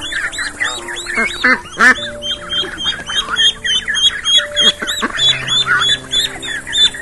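A flock of birds calling, with many short high calls overlapping in quick succession, over background music with held notes.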